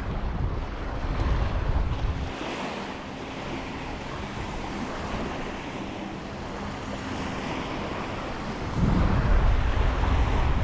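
Ocean waves washing onto the beach, with wind buffeting the microphone in gusts, strongest in the first two seconds and again near the end.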